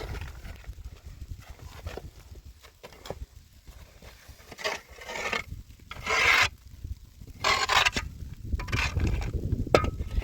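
Four rasping scrapes, each about half a second long and a second or so apart, over a low rumble.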